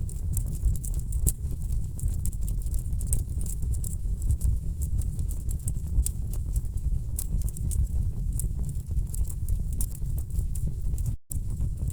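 Wood fire burning in a fireplace: frequent irregular crackles and sharp pops over a steady low rumble of the flames. The sound cuts out for a split second about eleven seconds in.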